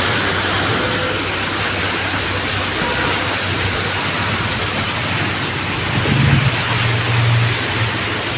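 Steady heavy rain hissing, with a low rumble swelling about six seconds in.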